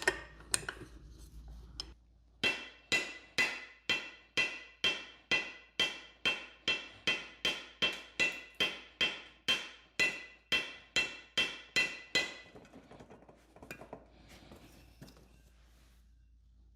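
Hammer striking metal in a steady run of about two dozen evenly spaced blows, roughly two or three a second, each one ringing. The run stops about three-quarters of the way through, and a few light clanks of tools come before and after it.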